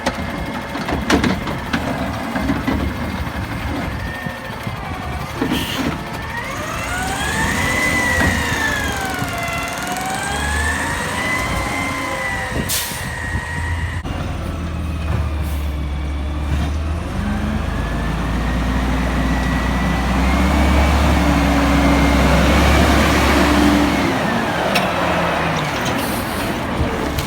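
Garbage truck working: its diesel engine revs up under load while a whine rises and falls in slow waves for several seconds, followed by a longer stretch of heavy engine running with a steady higher hum and hiss.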